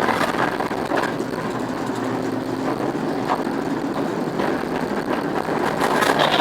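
Diesel engine of a British Rail Class 08 shunting locomotive, an English Electric six-cylinder, running steadily with the throttle cut back as the loco rolls along.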